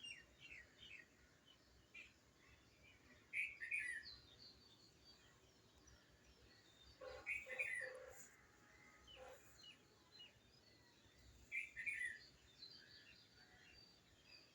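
Birds chirping in short clusters of quick notes, the strongest about every four seconds, over a faint steady hiss.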